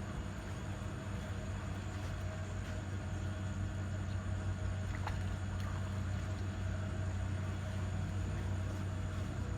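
A steady low engine hum, unchanging throughout, with a faint click about five seconds in.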